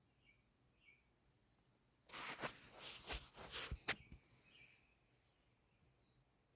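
Faint, brief bird chirps, with a thin steady high tone at first. About two seconds in, a loud rustling with several sharp clicks takes over for about two seconds, then the faint chirps return.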